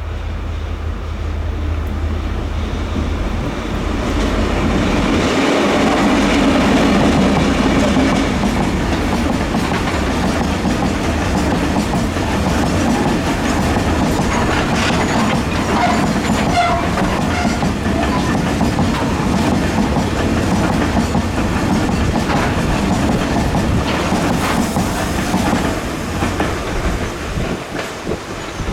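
Taiwan Railways freight train headed by diesel-electric locomotive R160 passing close by: the locomotive's low rumble swells in the first few seconds, then a long string of freight wagons goes by with a steady clickety-clack of wheels over the rail joints.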